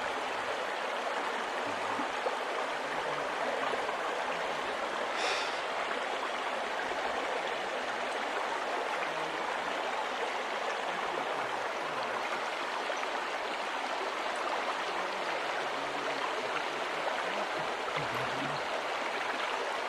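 Stream water rushing and gurgling steadily at an even level.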